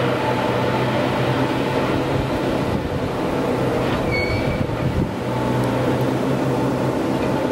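Railway works train running, a steady engine hum with machinery noise, and a brief high squeal about four seconds in.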